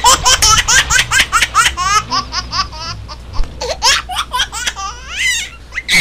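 Rapid, high-pitched vocal calls, several a second, coming in bouts with short gaps about halfway through and again near the end.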